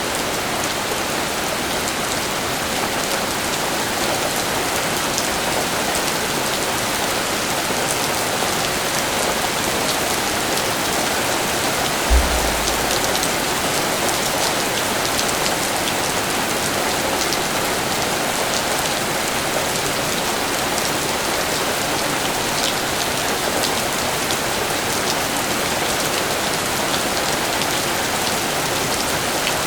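Steady rain falling, with individual drops ticking. A single low thump comes about twelve seconds in.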